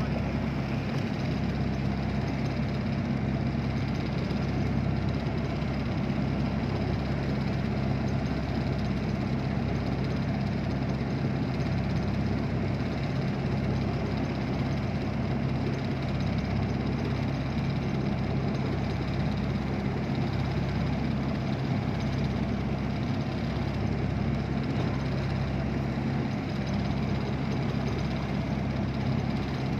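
Boat engine running steadily at an even pitch, a low constant hum.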